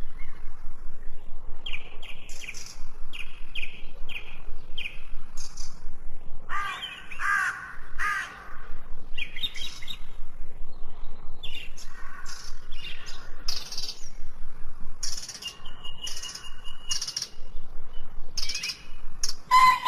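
Birds calling and chirping, many short calls in quick succession, with a few harsher, hoarse calls near the middle.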